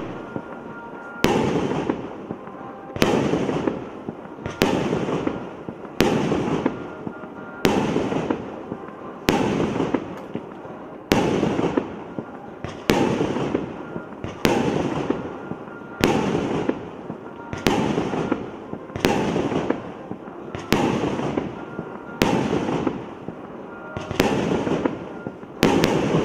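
A 19-shot, 1.2-inch firework cake firing its shots one after another, about one every 1.7 seconds, some sixteen in all. Each shot is a sharp bang followed by a rush of noise that fades before the next.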